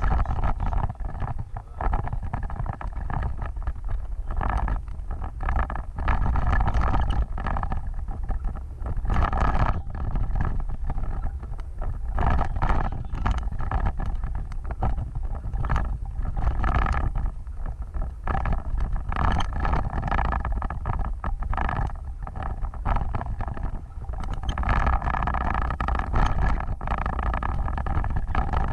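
Off-road vehicle driving, a continuous engine and rolling rumble that surges unevenly, with wind buffeting the microphone.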